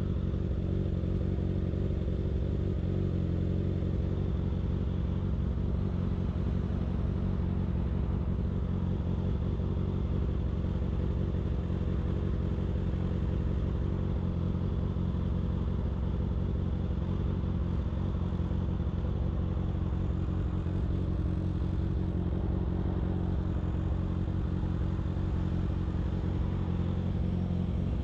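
Motorcycle engine running at a steady speed while riding, its pitch holding level with no revving, over a haze of road noise.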